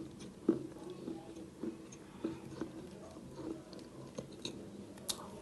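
Close-miked chewing of chalk: short, irregular crunches about every half second, with a sharper crunch near the end.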